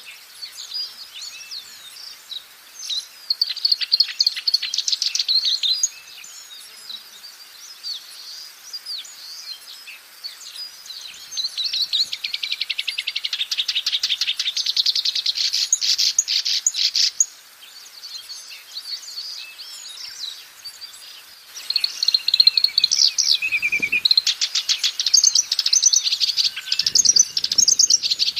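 Black-browed reed warbler singing: long bursts of fast, chattering repeated notes, broken by quieter gaps of a few seconds.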